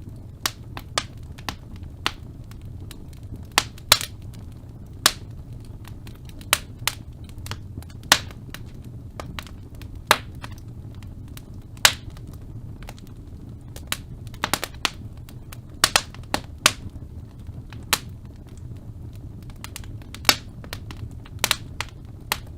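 Wood fire burning in a fireplace, crackling: irregular sharp pops and snaps, one or two a second with a few quick clusters, over a steady low rumble of the flames.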